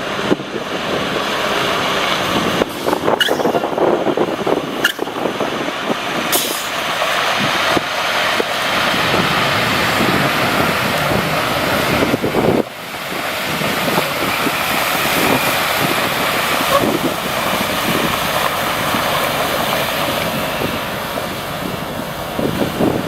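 2005 International 4300 water truck running: a steady, loud, noisy rush with a few sharp clicks in the first few seconds and a brief drop about halfway through.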